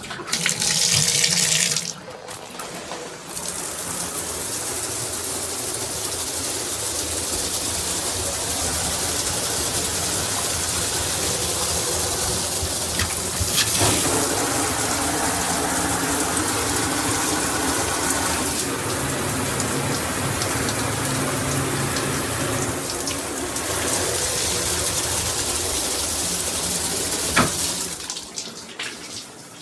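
Water spraying from a shower head: a brief louder gush at the start, then a steady spray whose sound shifts a few times, stopping near the end.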